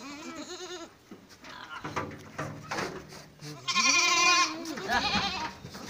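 Goats bleating: several quavering bleats, one short one at the start and a long, loud one about four seconds in, followed by another shortly after.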